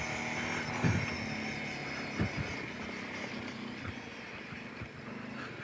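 Kawasaki Brute Force 750 ATV's V-twin engine running steadily on a trail, heard low and muffled under a faint hum, with a few soft knocks about 1, 2 and 4 seconds in.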